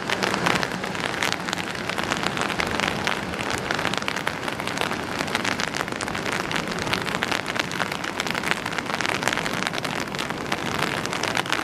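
Steady rain pattering on an umbrella overhead: a dense, even spray of drop ticks close to the microphone.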